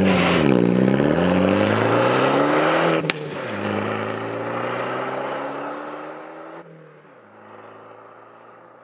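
Alfa Romeo MiTo's engine and exhaust accelerating hard: the pitch dips, then climbs steadily. About three seconds in comes a short sharp crack as the pitch drops at an upshift, then it climbs again more slowly and fades near the end.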